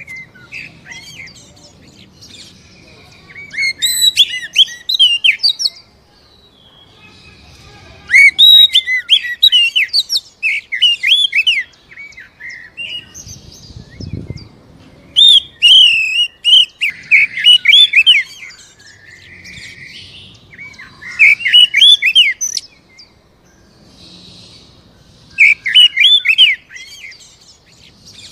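Oriental magpie-robin (kacer) singing in five loud bursts of rapid, varied whistled notes, a few seconds apart, with fainter chirps between the phrases.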